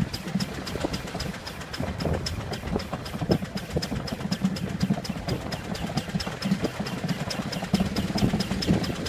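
Miniature Ruston Proctor steam traction engine on the move, with a quick, even ticking about five times a second over a low, steady running noise.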